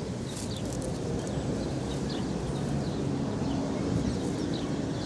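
Small birds chirping again and again in the background, short falling chirps over a steady low rumble, with a few light clicks of rustling.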